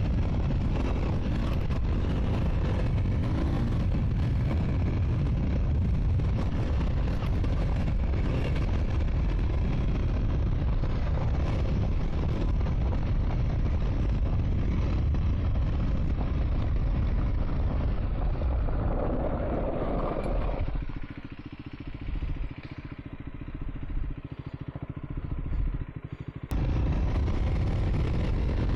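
Motorcycle engine running under way on a gravel track, with wind noise on the microphone. The sound drops noticeably for about five seconds near the end, then comes back suddenly.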